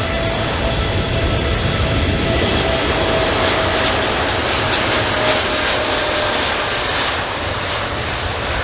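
Boeing 787-9's twin turbofan engines at takeoff thrust: a loud, steady jet rush with a steady whine running through it, easing slightly near the end.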